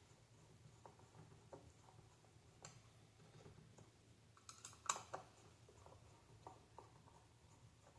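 Faint scattered clicks and taps of small parts and screws being handled while the console is taken apart, with a sharper cluster of clicks about five seconds in.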